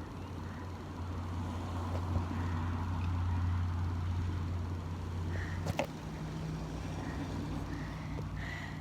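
Dirt bike engine running with a steady low drone. About six seconds in there is a knock, and the engine note steps up to a higher pitch and holds there.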